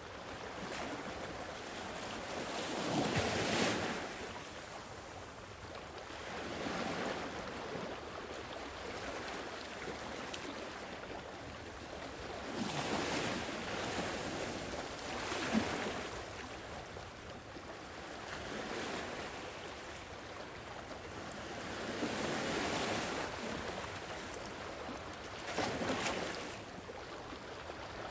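Sea waves washing onto a shore, swelling and falling away every few seconds, with the strongest breakers about three seconds in and near the end.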